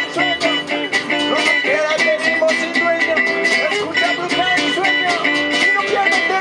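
Gypsy-jazz band playing live: acoustic guitar strummed in a steady rhythm under a melody line that slides in pitch.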